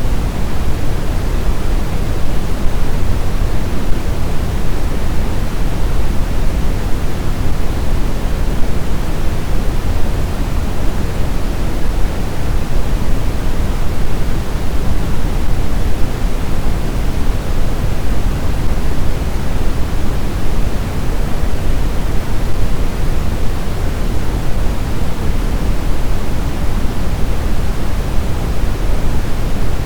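Blizzard wind, a steady, deep rushing noise that keeps an even level, with no distinct gusts or howls.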